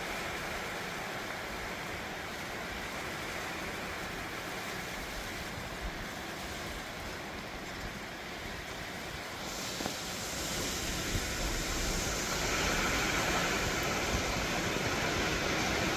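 Heavy wind-driven rain pouring down steadily, growing louder and heavier from about ten seconds in.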